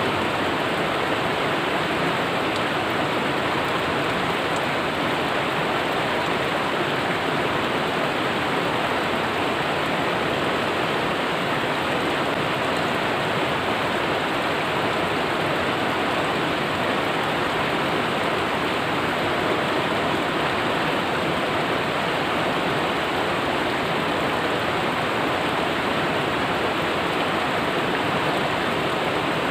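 Steady rush of flowing river water, an even hiss with no breaks or distinct splashes.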